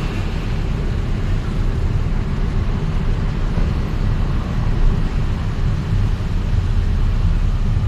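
Steady engine and road noise of a vehicle on the move, a low rumble with no distinct events.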